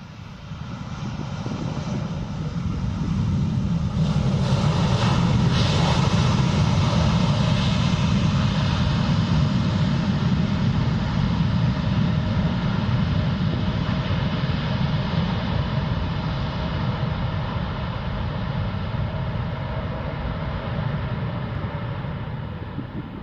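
Jet airliner landing on the Polderbaan, passing low overhead: its engine sound builds over the first few seconds, peaks, then fades slowly as it moves away.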